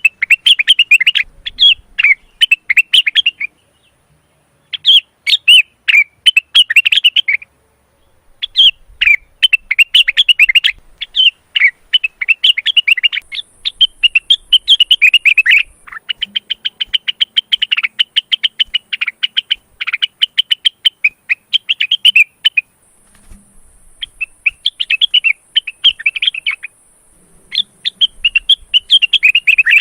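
Male cucak wilis (rengganis) leafbird in breeding condition singing: long runs of rapid, varied chirps and whistles, broken by a few brief pauses.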